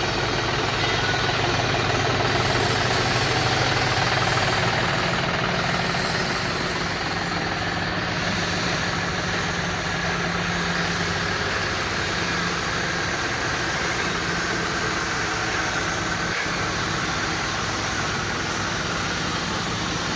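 Tractor engine running steadily, a little louder for the first several seconds and then settling at an even pitch.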